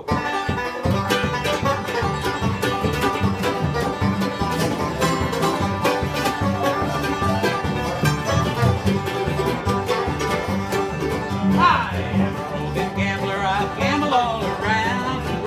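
Instrumental bluegrass-style string music: a fast plucked banjo and guitar playing, with no singing. From about twelve seconds in, a sliding, wavering melody line joins above the picking.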